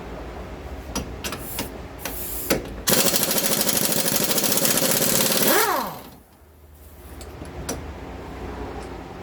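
Impact wrench hammering for about three seconds, then its motor winding down with a falling whine. A few tool clicks and knocks come before it.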